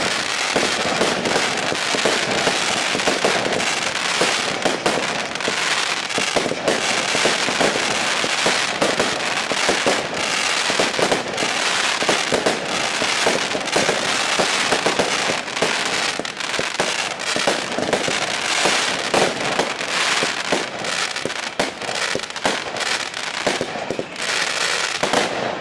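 Consumer firework called 'Soundmachine' going off: a dense, continuous run of rapid cracks and bangs that lasts about 25 seconds and dies away at the end.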